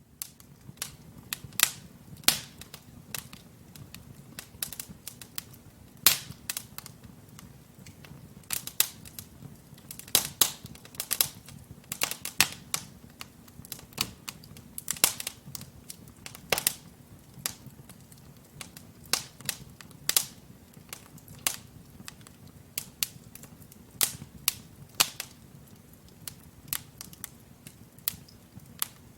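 Logs burning in a wood fireplace, crackling with irregular sharp pops and snaps, sometimes several in quick succession, over a low steady rumble of the flames.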